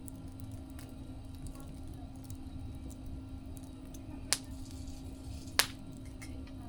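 Wood fire crackling: a steady low rumble with scattered small ticks and two sharp pops, one a little past four seconds in and one about five and a half seconds in.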